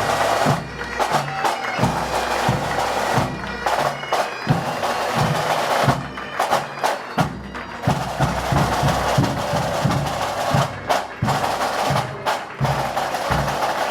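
Pipe band playing: bagpipes sounding their steady drones and melody over snare and bass drums.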